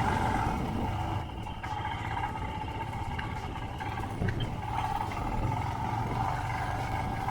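Royal Enfield Himalayan's single-cylinder engine running steadily while the motorcycle is ridden, with a constant hum and low rumble.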